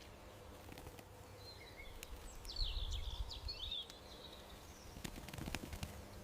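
Small birds chirping: a quick run of high chirps in the middle, over a low, steady outdoor background. A few short clicks or rustles follow near the end.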